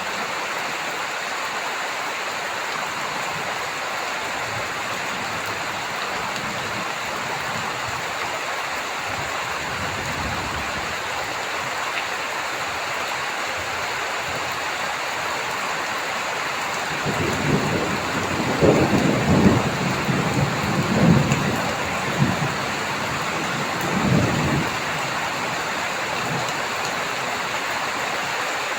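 Steady heavy rain hissing, with a rumble of thunder rolling in about two-thirds of the way through and dying away over some seven seconds.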